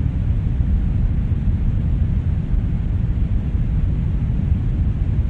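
Brown noise: a steady, deep rumbling hiss with most of its energy in the bass and little in the treble, unchanging throughout.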